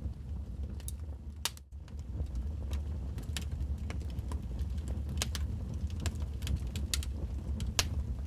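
Wood fire in a fireplace crackling and popping irregularly over a steady low rumble, with a brief dip in the sound about one and a half seconds in.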